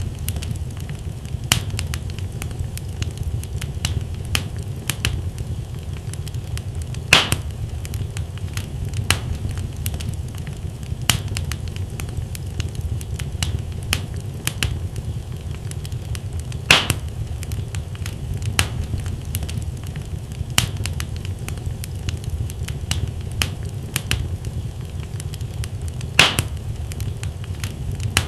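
Wood fire burning in a fireplace: a steady low rumble of flames with scattered crackles from the logs and three louder pops spread through.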